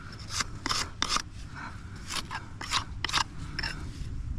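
Metal jointer scraping along fresh, setting mortar joints between bricks in quick short strokes, about two to three a second, compressing the mortar to seal it against the brick.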